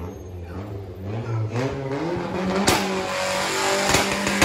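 Car engine revving up over about two seconds, then held at steady high revs, with a few sharp bangs.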